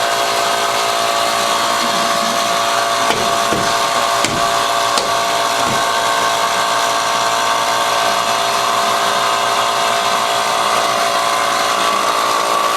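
Steady mechanical drone of machinery running, a constant pitched hum over a hiss, with a few faint knocks and clinks around the middle.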